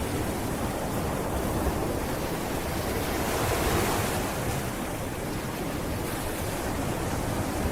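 Sea waves washing onto a beach, a steady surf hiss that swells a little about halfway through, with some wind on the microphone.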